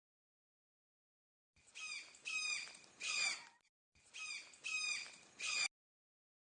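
A bird calling: a phrase of three notes, each falling in pitch, given twice with a short break between.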